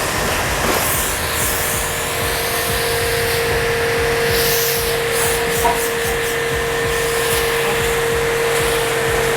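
Portable high-pressure car washer running steadily, its motor humming at a constant pitch under the hiss of the spray.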